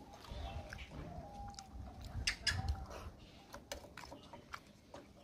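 Close-up sounds of eating rice and fish curry by hand: chewing and wet mouth smacks heard as a run of sharp clicks, loudest in the middle, with fingers working the rice on a plate. Faint wavering animal-like calls repeat in the background.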